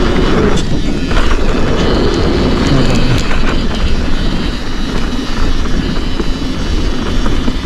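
Riding noise from a Forbidden Dreadnought full-suspension mountain bike descending a dirt trail: heavy wind buffeting on the microphone, tyres on dirt, and a constant clatter of small knocks and rattles from the bike over rough ground.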